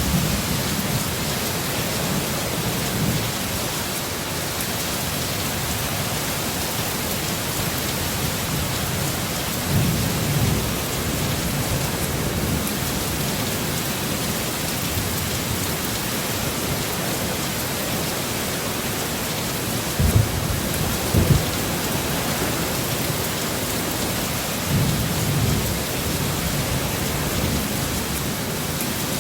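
Heavy rain falling in a steady hiss, with deep thunder rumbles breaking through several times. The loudest are two sharp claps a second or so apart, about two-thirds of the way through.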